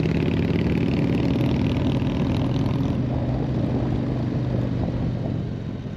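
Motorcycle engine running steadily at low speed, fading out near the end.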